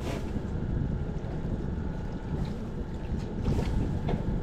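Steady low rumble of wind on the microphone over water lapping at a small boat, with a few light clicks.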